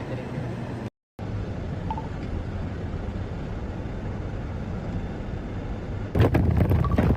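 Steady low rumble of vehicle and road noise, cut off briefly by an edit about a second in; near the end it grows louder and rougher.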